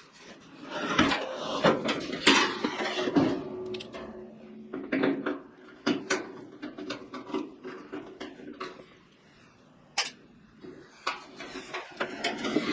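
Hands working on a kerosene heater's parts: irregular clicks, knocks and scraping, busiest in the first few seconds and again near the end.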